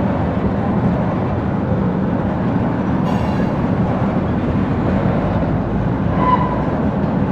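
Oil-train tank cars rolling steadily past, a continuous rumble of steel wheels on rail. A short high squeal cuts in about three seconds in and another about six seconds in.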